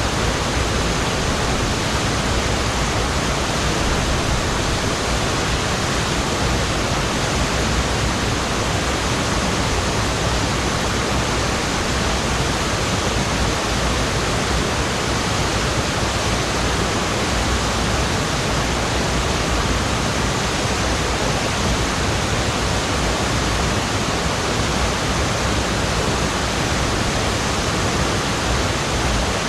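Waterfall pouring, a steady, even roar of falling water.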